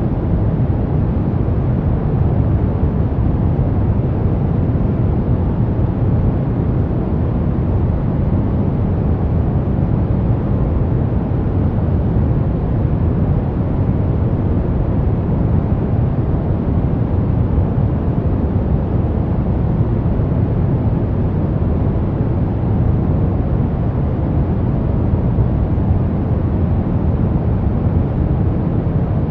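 Brown noise: a steady, deep, even hiss, strongest in the bass and thinning out toward the treble.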